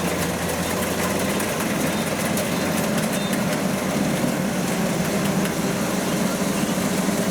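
Farm-machine engine running steadily at a constant speed, an even mechanical hum with no change in pitch.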